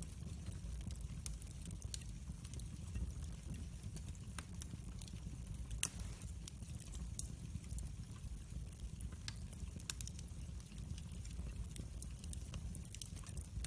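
Wood fire burning, with a steady low rumble of flame and scattered sharp crackles, one louder pop about six seconds in.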